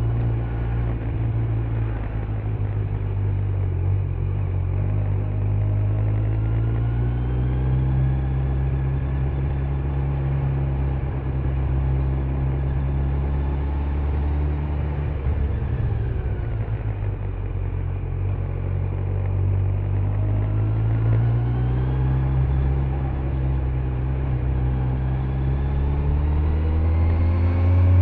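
Kawasaki Z900's 948 cc inline-four engine with stock exhaust under way at road speed. Its pitch climbs gently, drops back about halfway through as the throttle eases, then climbs again toward the end.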